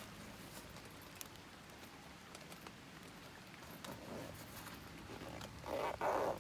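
Campfire burning, with scattered small crackles and pops. A louder, brief noise comes near the end.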